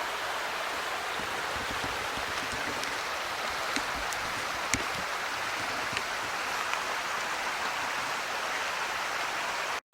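A creek running steadily, a continuous rush of water with a few faint clicks in the middle, cutting off suddenly near the end.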